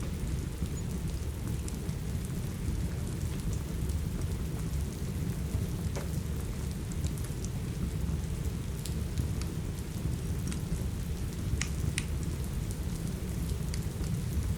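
Steady rain with a heavy low rumble, over which a wood fire crackles now and then with sharp pops, a few louder ones about six and twelve seconds in.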